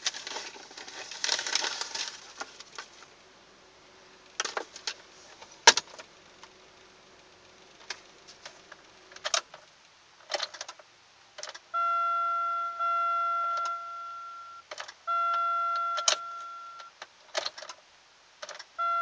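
Car keys jangling and the ignition switch clicking as the key is turned, with no engine running or cranking heard. About twelve seconds in, the car's electronic warning chime starts: a steady tone held for two to three seconds at a time with brief gaps.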